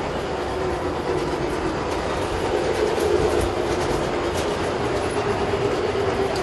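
Large-scale model train running on its layout track: a steady electric motor hum with light clicking of the wheels over the rails.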